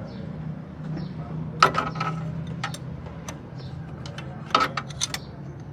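Metal hand tools clinking and knocking against car suspension parts in several short groups, the loudest about four and a half seconds in, over a steady low hum.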